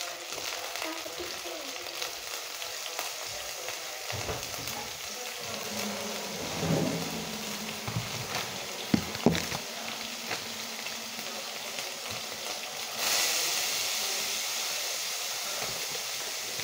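Food frying in a pot on a gas stove: a steady crackling sizzle that gets louder about thirteen seconds in. A couple of sharp knocks sound about nine seconds in.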